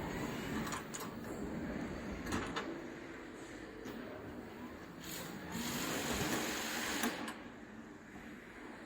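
Electric pallet jack running under power, a steady small-motor whir with scattered clicks, louder for about two seconds past the middle.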